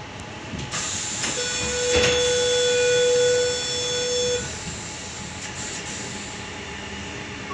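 Door-closing warning tone of a Sydney Tangara train: a hiss of air, then one steady electronic buzz about three seconds long, with a knock about two seconds in, as the doors shut before departure.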